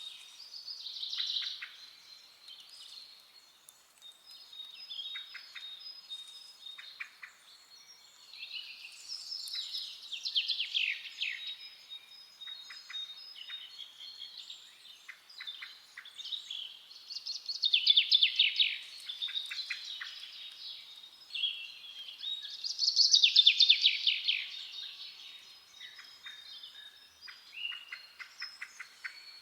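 Several songbirds singing and calling together: overlapping chirps, whistles and fast trills, with the loudest bursts of song about two thirds of the way through and again shortly after.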